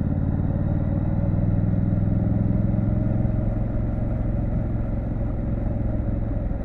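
Triumph Street Scrambler 900's parallel-twin engine running at low revs with a steady, low note. It swells a little about two seconds in, then eases slightly.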